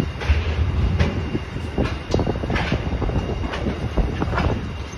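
Empty freight flat wagons rolling past, their wheels clacking over the track again and again over a steady low rumble.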